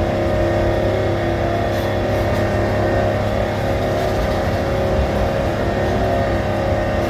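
Amusement-park excursion train running steadily along its track, a constant engine drone with rumble beneath, heard from aboard.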